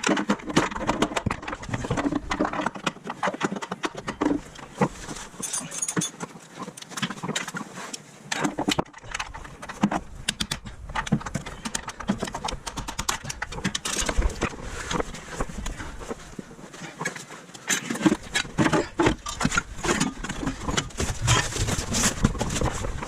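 Irregular clicking, tapping and clattering of hand tools and metal parts.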